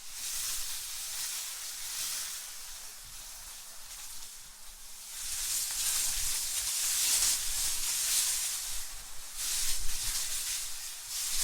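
AI-generated wind sound: a high-pitched, hissing rush that surges and eases in gusts, growing louder about halfway through.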